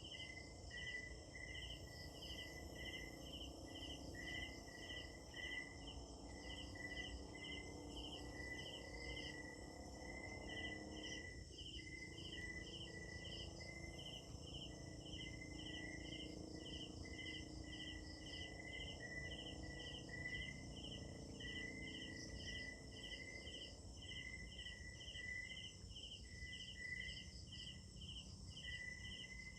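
Night insect chorus: crickets chirping in steady, even pulses about twice a second, layered with other higher, faster-pulsing insect calls.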